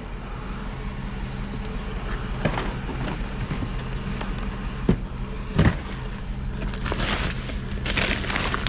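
A vehicle engine idling steadily under the sound of junk being rummaged through: a few sharp knocks, then rustling and crackling of handled items near the end.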